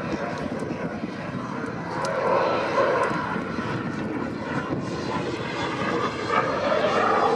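Jet noise from the Cessna A-37 Dragonfly's twin turbojet engines in flight: a steady rushing roar, growing a little louder near the end.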